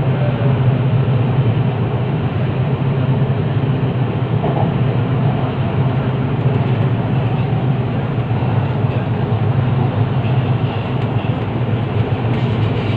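MRT train running steadily between stations, heard from inside the carriage: an even rumble with a deep hum.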